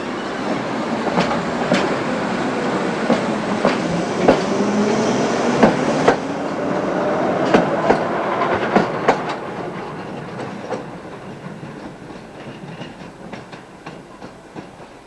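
Tram running along the track: steel wheels clacking over rail joints, with an electric motor whine that rises and falls. The sound fades away over the last few seconds.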